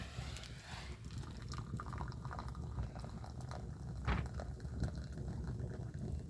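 Water being poured or splashed, then a run of small irregular clicks and drips with one sharper knock about four seconds in, over a steady low rumble.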